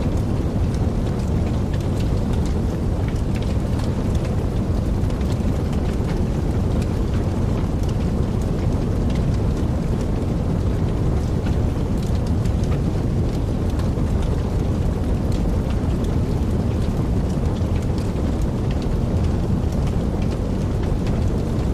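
Wood fire burning in a fireplace: a steady low rumble of flames with soft, scattered crackles and pops throughout.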